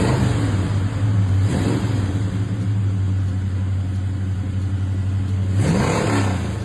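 Car engine idling steadily, with a short rev about a second and a half in and a bigger rev that rises and falls near the end.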